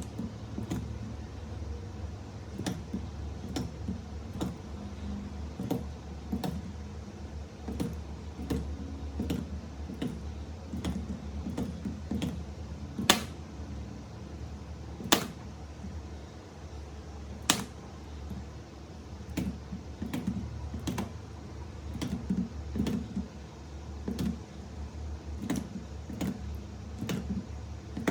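Irregular light clicks and clacks of small hard objects being handled, about one or two a second, with three sharper snaps near the middle. A steady low hum runs underneath.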